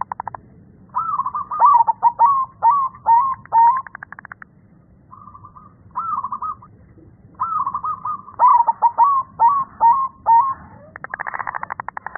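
Zebra dove (perkutut) singing: two phrases of repeated swooping coos, short notes between them, and a rapid buzzing trill near the end. This is the deep, bass voice that keepers prize in the bird.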